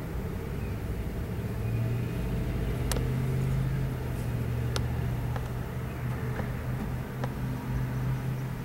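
Diesel locomotives on a CSX double-stack freight train passing, a steady low engine drone over a rumble, with a few sharp clicks.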